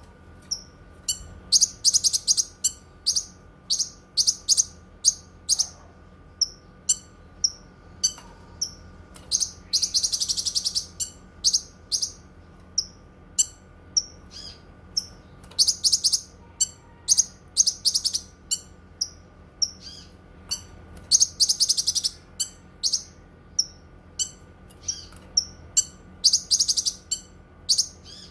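Cucak kinoi singing: rapid sharp high chirps repeated about once a second, broken every few seconds by longer bright trilled phrases, over a faint steady hum.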